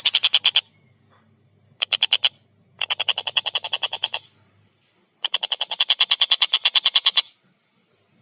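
Tengkek buto kingfisher calling in fast rattling bouts of repeated sharp notes, about ten a second. There are four bouts with short silent gaps between them; the longest lasts about two seconds, near the end.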